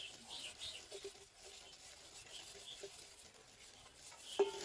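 Faint, high bird chirps with a few light taps and clicks, and a short pitched call near the end.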